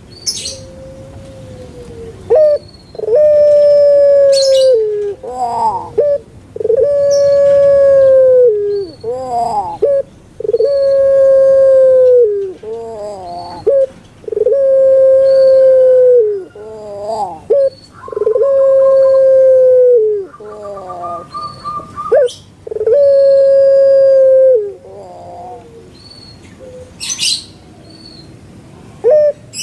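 Puter pelung dove (Streptopelia risoria) cooing over and over: about six long, steady, low-pitched coos, each lasting a couple of seconds and dropping at the end, with short wavering rising-and-falling notes between them.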